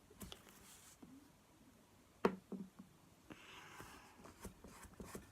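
Faint handling noises of slime being played with by hand: a few soft clicks and pops about two seconds in, then a quiet rustling, sticky squish.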